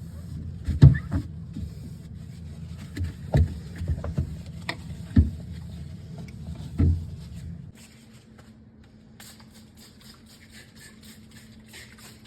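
Knocks and clunks of items being handled and set down while a fridge is cleaned out, about six sharp ones in the first part, over a low steady hum that cuts off about two-thirds of the way through, leaving only faint ticks.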